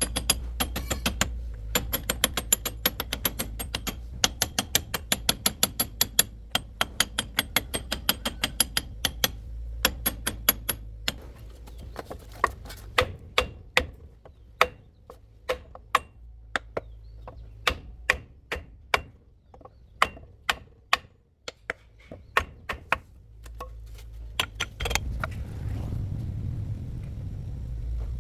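A series of sharp metallic clicks, about three a second at first, then slower and irregular, over a steady low mechanical hum that fades briefly and returns louder near the end.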